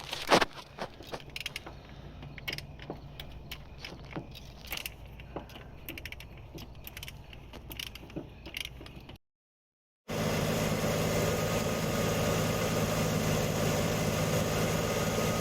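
Scattered metal clicks and clanks of hand tools working on an engine over a low hum, then, after a brief cut to silence about nine seconds in, a Jeep J10 truck engine idling steadily.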